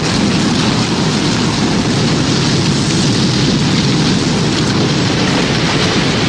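Tornado storm sound effect: a steady, loud rush of wind and rain over a heavy low rumble, with no change through the stretch.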